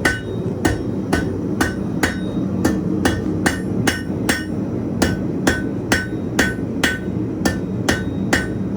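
Hand hammer striking hot 1/4-inch square steel stock on an anvil in a steady rhythm of about two and a half blows a second, each blow ringing briefly, as the bar is forged. A steady low rush from the running propane forge lies underneath.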